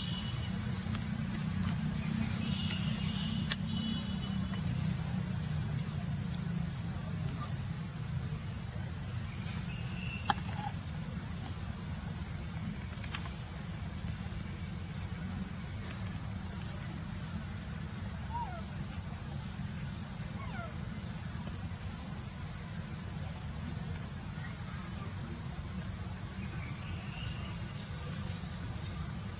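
Insects, crickets by the sound, chirping in a high-pitched, rapid, even pulse that breaks off briefly now and then, over a steady low rumble; a couple of sharp clicks are heard about three and ten seconds in.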